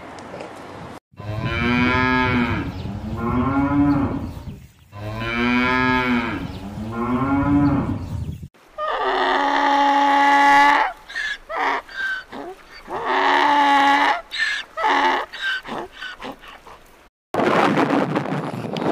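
Cattle mooing: two long moos, each about three and a half seconds, bending up then down in pitch. After an abrupt cut come a steadier long call and a run of short calls.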